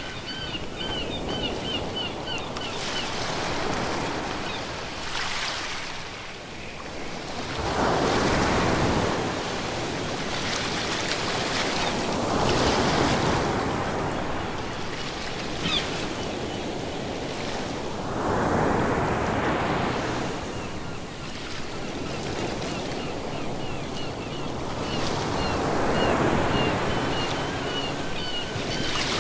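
Ocean waves breaking and washing up the shore, the surf swelling and fading in slow surges several seconds apart, with four louder breakers.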